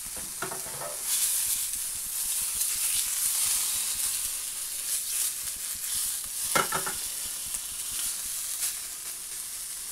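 Beef burger patty sizzling in a non-stick frying pan, getting louder about a second in, with a plastic spatula scraping the pan as the patty is worked.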